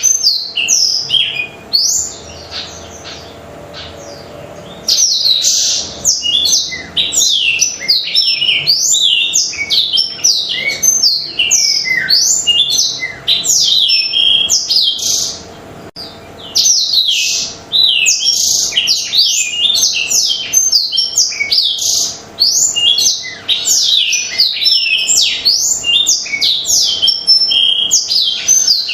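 Blackthroat (black-throated canary) in full song: a fast, unbroken run of high chirps, sweeps and trills, with a quieter pause about two to five seconds in.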